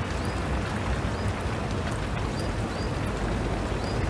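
Steady rain falling on a river's surface. A faint short high chirp repeats every second or so through the rain.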